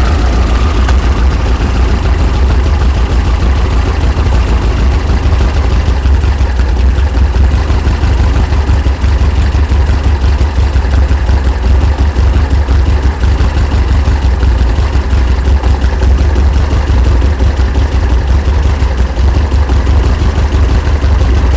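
1900 cc air-cooled VW flat-four engine with dual EMPI 40 IDF carburettors idling steadily, just after starting, while its ignition timing is checked with a timing light.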